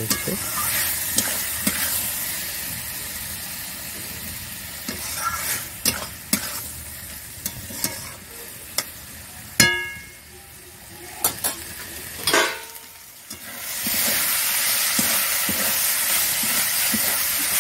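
Diced potatoes sizzling in oil in a metal kadai while a metal spatula stirs and scrapes them, with scattered clicks. Twice, about ten and twelve seconds in, the spatula strikes the pan and it rings briefly. The sizzle is loud at first, dies down through the middle and comes back loud about fourteen seconds in.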